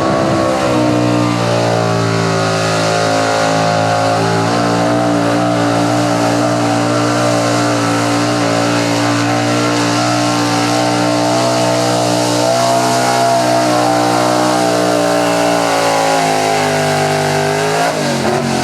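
Small-block V8 engine of a 4x4 pickup truck held at high revs under full throttle while it drags the pulling sled down the track. The pitch climbs in the first second, stays high with small wavers, and falls away near the end as the throttle is let off when the pull stops.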